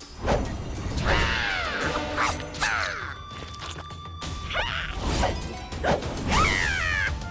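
Cartoon soundtrack: playful background music with several quick sliding, squeaky pitch sweeps and a few sharp comic hits.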